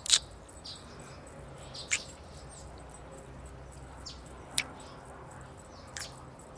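Close-up kissing sounds: four short lip smacks spread a second or two apart, the first the loudest, over faint outdoor ambience of birds and insects.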